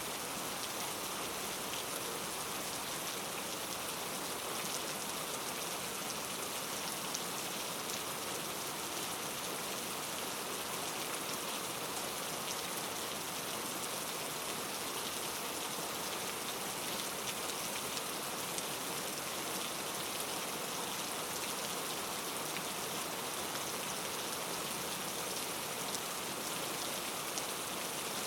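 Steady rain falling on a surface, an even hiss with scattered faint drop ticks and no change in strength.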